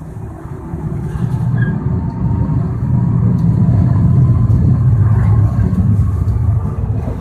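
Light-rail train running with a low rumble that builds over the first couple of seconds and then holds steady, with a faint thin whine above it.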